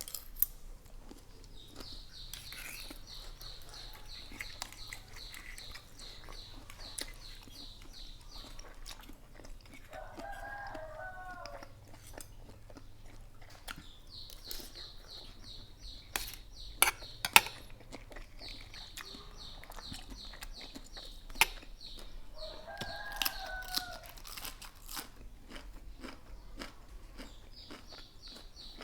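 A rooster crowing twice, about ten seconds in and again near 23 seconds, over close-up crunching and chewing of papaya salad with raw vegetables, with several sharp crunches. A high, rapid pulsing chirr comes and goes throughout.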